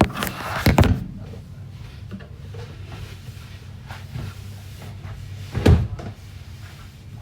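Kitchen cupboard doors opening and shutting: a knock at the start, a louder bang just under a second in, and another bang about five and a half seconds in.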